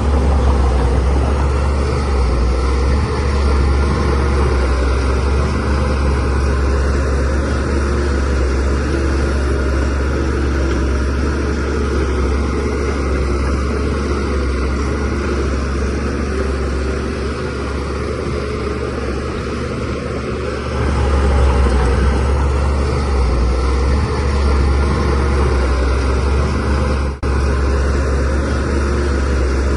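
DH17C3 bulldozer's diesel engine running continuously, with a heavy low drone, growing louder about two-thirds of the way through. A momentary drop-out near the end.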